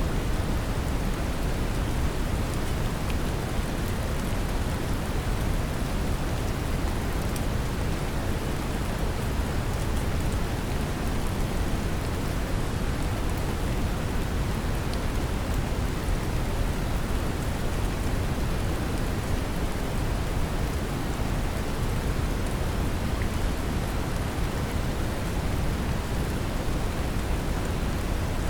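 Steady brown noise, a deep low rumbling hiss, mixed with the even patter of rain, with faint drop ticks here and there. Nothing changes from start to end.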